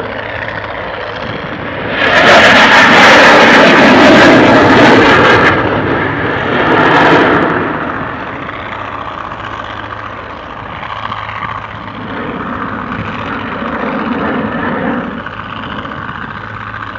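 Dassault Rafale's twin jet engines as the fighter passes: loud about two seconds in for roughly three and a half seconds, swelling once more around seven seconds, then fading to a fainter rumble.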